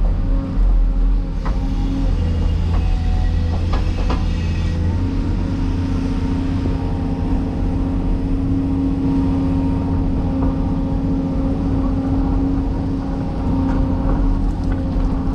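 Heavy diesel machinery running steadily under load, with a few sharp knocks in the first four seconds.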